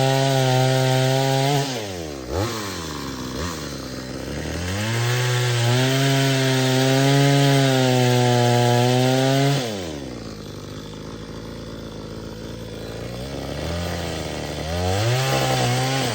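Sportsman Series 20-inch 52cc two-stroke gas chainsaw cutting wood at high revs. The engine's pitch drops sharply about two seconds in and climbs back to full speed. Near ten seconds it falls to a lower, quieter speed, then revs up again near the end.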